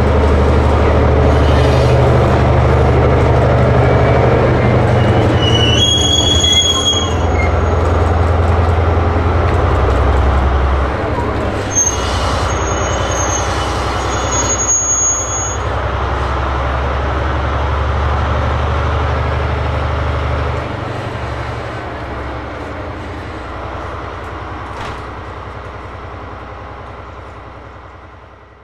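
The TRAIN SUITE Shiki-shima sleeper train creeping into the station with a steady low rumble from its running gear. Its wheels briefly squeal high on the rails about six seconds in and again a few seconds later. The rumble drops as the train slows to a stop and then fades out near the end.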